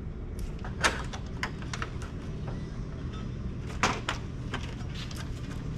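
Scattered light clicks and taps of a circuit board and its chips being handled, over a steady low hum.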